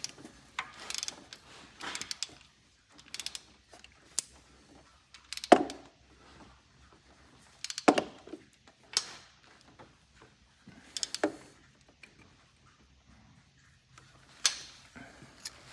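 Hand ratchet wrench clicking in short runs, with metal clinks and knocks from tools and bolts, while an engine ground strap is bolted to the engine block.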